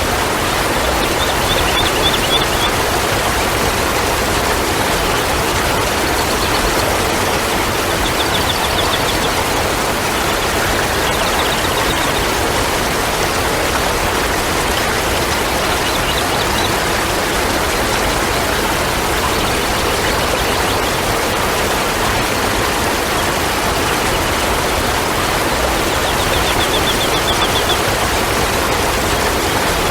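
Steady rushing water, like a stream or waterfall, with no change in level. A short, high, rapidly pulsed trill comes through faintly a few times.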